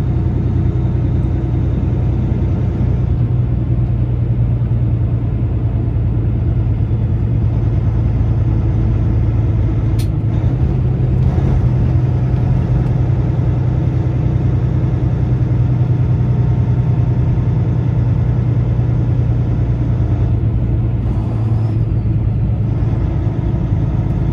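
Peterbilt semi truck's diesel engine and road noise, running steadily while driving, a continuous low drone. A single small click about ten seconds in.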